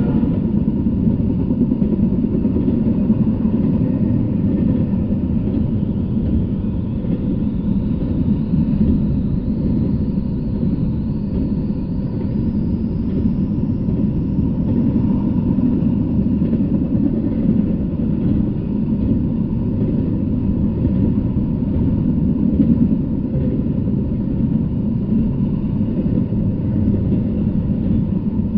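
Double-stack intermodal freight train rolling past: a loud, steady, low rumble of its wheels on the rails.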